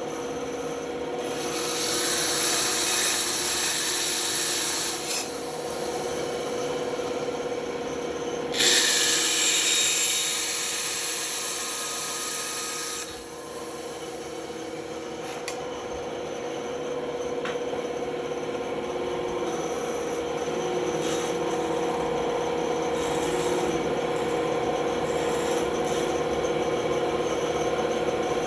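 Band saw running with a steady hum as its blade cuts wood. There are two louder stretches of cutting, the second starting abruptly about nine seconds in, then lighter cutting for the rest.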